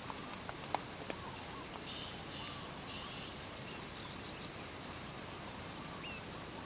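Birds chirping in short, repeated notes over a steady background hiss, with a few light clicks in the first second.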